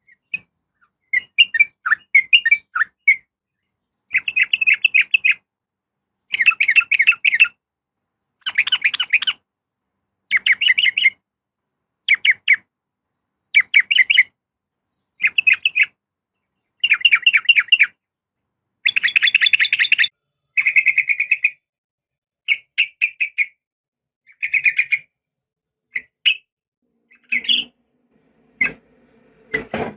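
Yellow-vented bulbul (trucukan) calling in repeated bursts of quick bubbling chattering notes, one burst about every one and a half to two seconds, presented as a female calling a male. A fainter, lower sound comes in near the end.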